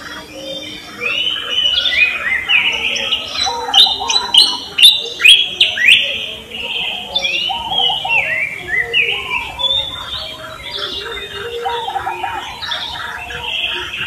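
Several birds chirping and calling over one another in a steady chorus of short chirps and quick pitch glides. A cluster of loud, sharp falling calls comes about four to six seconds in.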